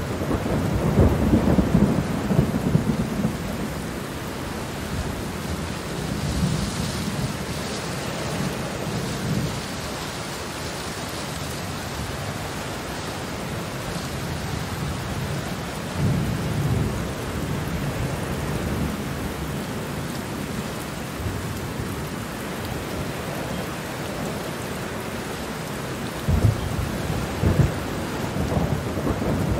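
Steady heavy rain with rolling thunder. The thunder rumbles loudest in the first few seconds, again about halfway through, and once more near the end.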